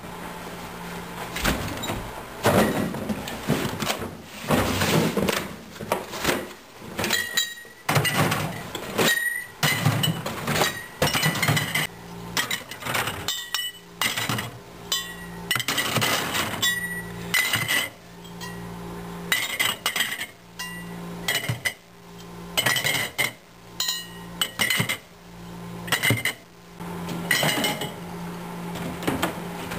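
Beer bottles clinking and knocking against each other and the shelves, over and over at an irregular pace, as a refrigerator is stocked. A steady low hum joins underneath about twelve seconds in.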